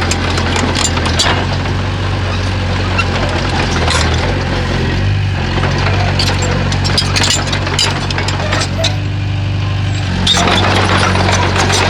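Komatsu bulldozer's diesel engine running steadily, with frequent sharp knocks and clatter over it. The engine note gets louder again about ten seconds in.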